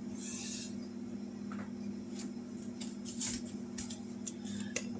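Faint scattered clicks and scrapes of dumpling dough being handled and dropped into a pot of simmering broth, over a steady low hum.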